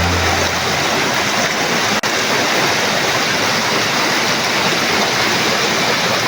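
Waterfall pouring: a steady, dense rush of falling water, with a very brief break about two seconds in.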